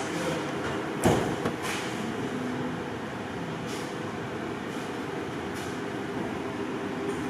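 Fiat Freemont 2.0 common-rail diesel engine (939B5.000) running steadily, with one sharp knock about a second in.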